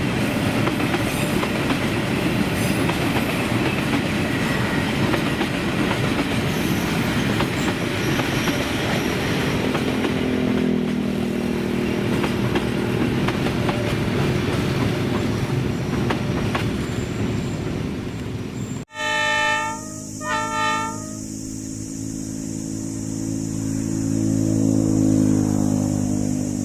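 A train running, a steady rumble with wheel-on-rail noise. After an abrupt cut, a locomotive horn sounds two short blasts, followed by a diesel locomotive engine running steadily.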